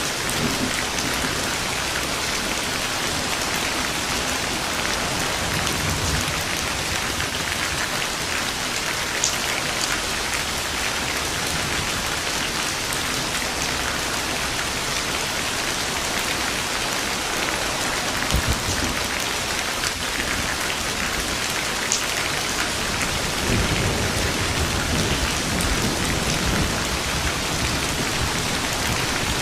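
Steady heavy rain falling, with low rumbles of distant thunder about six seconds in and again in the second half.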